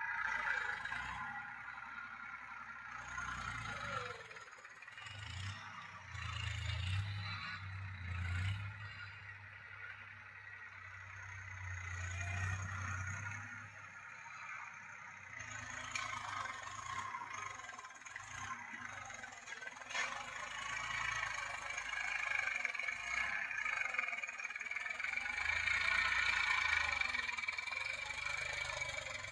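Massey Ferguson 1035 DI tractor's diesel engine running, its low rumble swelling and easing off several times.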